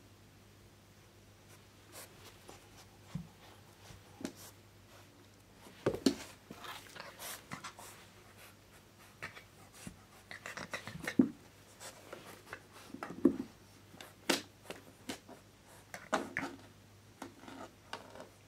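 A Kai Ken dog rolling and wriggling on its back on a wooden floor and rug: irregular scratchy rustles and soft knocks as its body and paws rub and bump against the floor, coming in flurries with short pauses.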